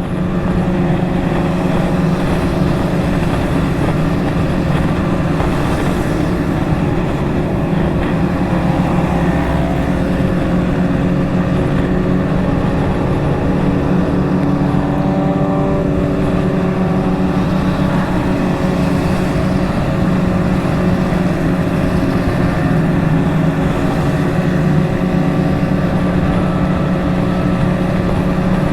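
Motorcycle engine holding a steady cruise, with wind rush, heard from on the bike. Other Kawasaki motorcycles in the convoy pass, their engine notes rising and falling between about 8 and 16 seconds in.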